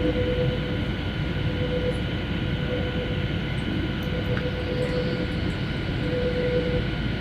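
Steady drone inside a passenger aircraft's cabin in flight, engine and airflow noise with a faint steady hum over it.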